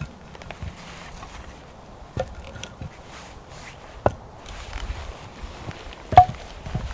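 Firewood being chopped: three sharp blows about two seconds apart, the last the loudest, with light rustling between them.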